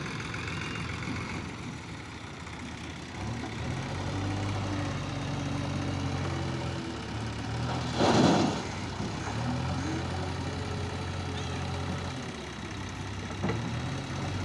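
Heavy diesel engine of earth-moving machinery running, picking up speed under load about three seconds in and again after a short, loud rushing burst about eight seconds in.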